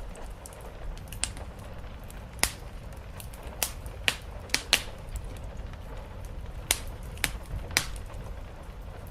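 Wood fire crackling in a fireplace: about nine loud, sharp pops at irregular intervals among fainter crackles, over a low steady rumble.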